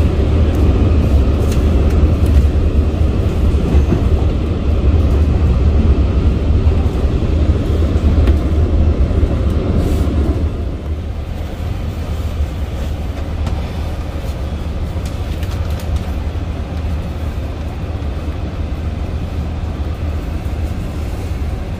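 Long Island Rail Road commuter train running on the rails, heard from inside the passenger car as a steady low rumble. The rumble eases a little about halfway through.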